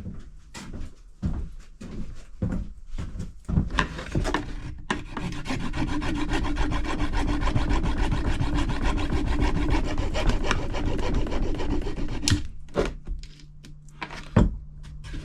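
Fins being cut off a plastic drain gully. There are a few short scraping strokes, then about eight seconds of steady, fast cutting that stops abruptly, then a few knocks.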